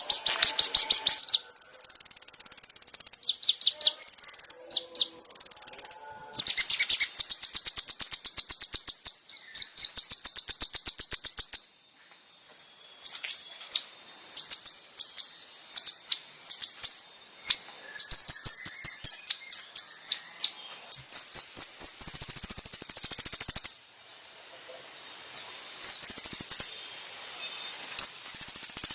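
Konin (brown-throated sunbird) song, high and fast: long trills of rapidly repeated notes broken by shorter chirping phrases and brief pauses.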